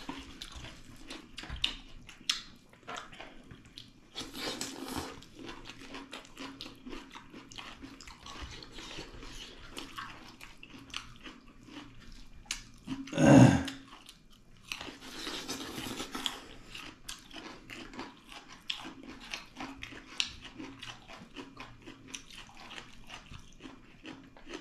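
Close-up chewing and biting of pork leg with rice and dal, with many small wet clicks and crunches. One brief, much louder sound comes about halfway through.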